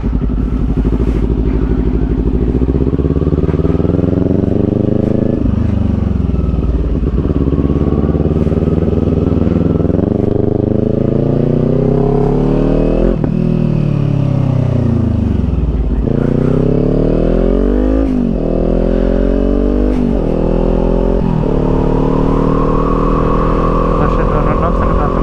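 Kawasaki Z400 parallel-twin engine under way, its pitch climbing as it accelerates and dropping sharply at each gear change, with a few slower falls as it slows, over steady wind noise.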